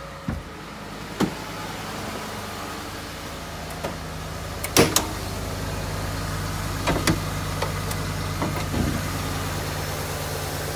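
Ford F-150's 5.0-litre V8 idling steadily, with several sharp clicks and knocks over it, the loudest a quick pair about five seconds in.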